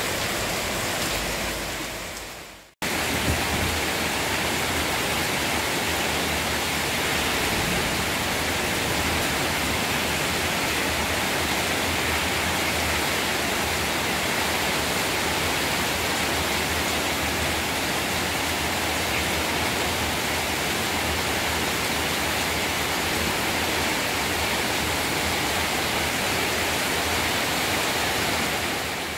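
Heavy rain falling steadily on leaves and puddled ground: an even, dense hiss. It fades to silence for a moment about two and a half seconds in, then comes back at the same level, and begins to fade again at the very end.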